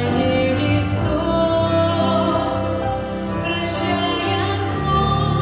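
Music: a slow song sung by a woman over an accompaniment, with long held notes.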